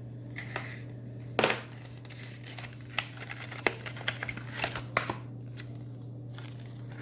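Hands handling an SSD's packaging: a strong crinkling rustle about 1.4 s in, then a run of sharp clicks and short rustles. A steady low electrical hum runs underneath.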